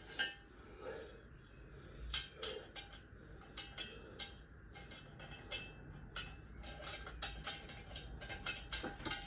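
Scattered light metallic clinks and knocks, about one or two a second, as tools and metal car parts are handled.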